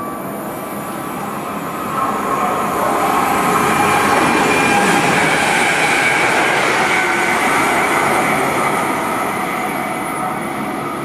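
Electric multiple-unit train passing through at speed: wheel and rail noise builds to a peak a few seconds in, then fades as it draws away, with a steady high-pitched tone over it.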